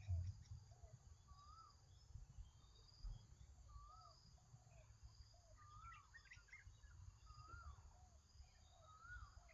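Faint bird calls: short rising-and-falling chirps repeated about once a second, with a thin high trill, over a low rumble. A soft thump at the very start.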